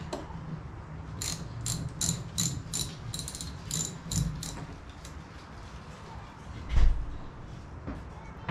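A run of sharp, ringing metallic clicks, about two or three a second, then a single heavy thud about seven seconds in.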